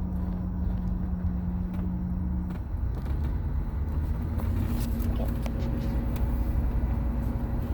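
Steady low engine rumble of an engine at idle, with a steady hum over it that gives way to a slightly higher hum about three seconds in.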